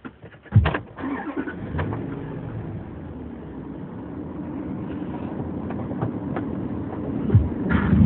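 Car engine starting about half a second in, then running steadily and slowly getting louder, with a few knocks near the end.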